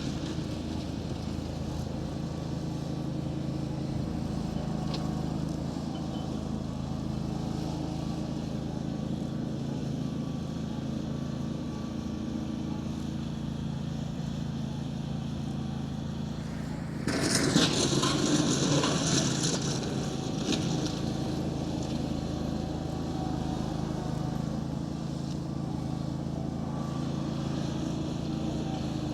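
A steady engine-like drone. About 17 seconds in, a louder rushing noise starts suddenly and dies away over a few seconds.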